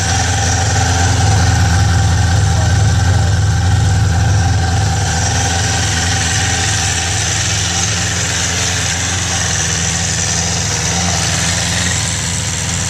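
1996 Suzuki Katana 600's inline-four engine running at a steady fast idle while still warming up after a choked cold start. It is a little louder in the first few seconds, then holds even.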